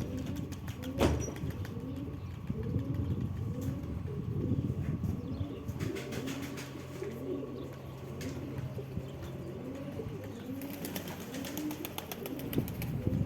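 Sverdlovsk high-flying pigeons cooing in many overlapping short calls. There is a sharp flutter of wings about a second in and a run of wing claps and flapping near the end.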